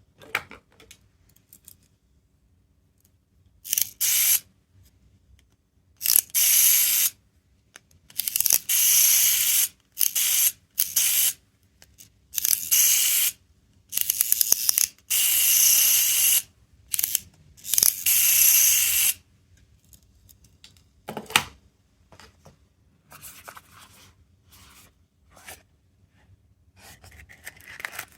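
A sound-making capsule toy plays a hissing, spray-like noise effect about ten times, each burst lasting half a second to a second and all equally loud. Fainter clicks and rustling follow near the end.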